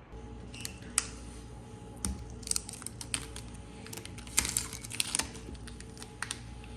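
Irregular run of sharp light clicks and taps, a dozen or more, with the loudest ones about a second in and after four seconds, over a steady hum.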